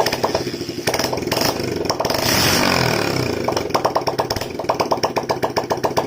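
Single-cylinder 125cc Honda Shine engine of a homemade motorcycle running, with a pulsing beat and a louder stretch about two seconds in.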